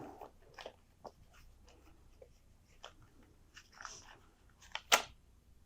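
Faint scattered taps and light scratches of sketching on a drawing surface, with one sharper click about five seconds in, over a low steady room hum.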